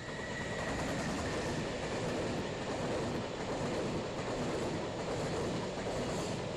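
Container freight train passing close by, with the steady rumble and clatter of its wheels on the rails. The noise swells at the start and then holds.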